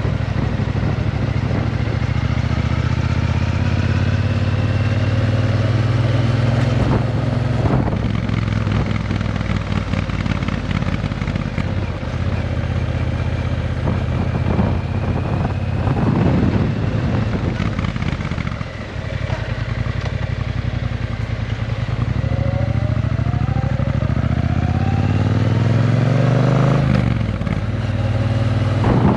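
Triumph Bonneville T120's parallel-twin engine through a Vance & Hines aftermarket exhaust, running steadily, with a brief drop in level about two-thirds in. Several rises in pitch follow as the throttle opens.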